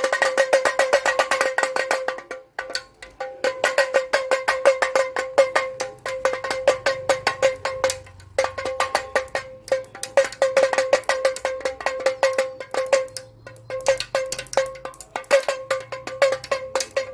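Damroo (damaru), a small hourglass-shaped hand drum, shaken so that its beaded cords strike the two heads in fast rattling runs of many strikes a second. Each stroke has a bright ringing pitch, and brief pauses break the runs.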